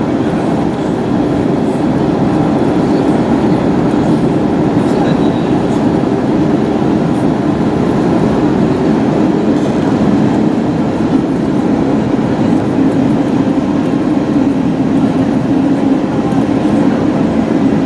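Steady low rumble inside the cabin of an Airbus A321neo airliner on the move, holding an even level without change.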